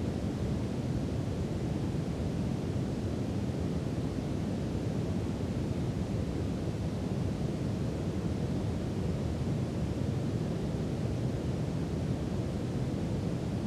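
Steady brown noise: an even, deep rumbling hiss with most of its weight in the low end and little treble, unchanging throughout.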